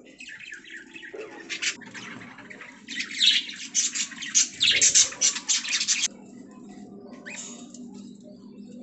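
Budgerigars chirping and chattering in quick, dense bursts, loudest in the middle and cutting off suddenly about six seconds in, with sparser chirps after.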